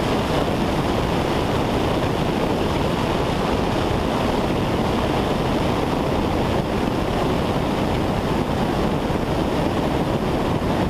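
Steady cockpit noise of a Cessna 172 in flight: engine and propeller drone mixed with the rush of air over the airframe, even and unbroken.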